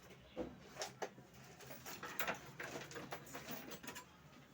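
Scattered light clicks and taps of printer parts being handled during a scanner repair, a few sharper knocks among them.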